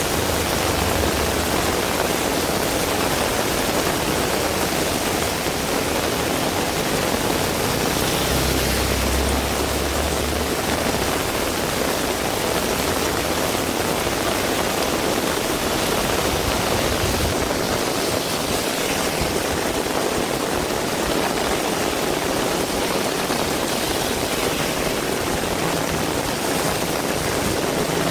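Heavy rain falling steadily, an even downpour hiss, with a brief low rumble about nine seconds in.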